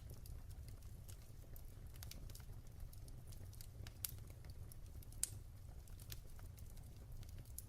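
Wood fire in a fireplace crackling: irregular sharp pops and snaps over a low, steady rumble of flame, with a louder snap about four seconds in and another about five seconds in.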